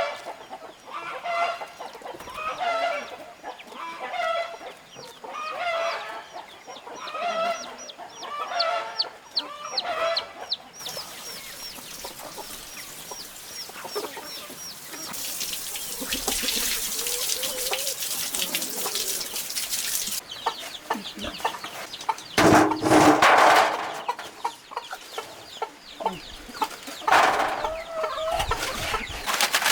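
Chickens clucking, a call about every second and a half for the first ten seconds. A steady hissing noise follows, then several loud noisy bursts later on.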